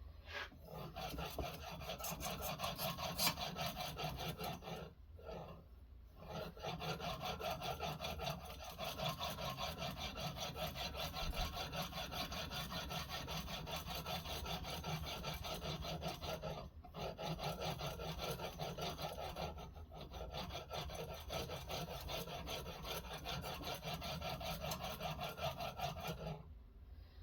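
Sharpening stone being stroked back and forth along a knife blade in a guided sharpening system, a steady abrasive scraping. It stops briefly three times, about 5, 17 and 20 seconds in.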